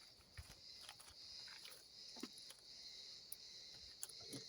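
Near silence: a faint steady high-pitched hum with a few faint scattered ticks.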